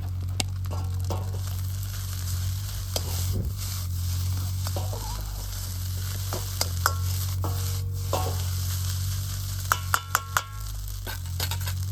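Fried rice sizzling in an iron wok over a wood fire, stirred with a metal ladle that scrapes and clinks on the pan. Near the end the ladle taps the wok about four times in quick succession.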